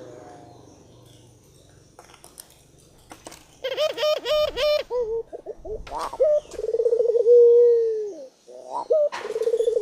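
Puter dove calling: after a quiet start, a quick run of short pitched notes about four seconds in, then long drawn-out coos that drop in pitch at the end, one more starting near the end.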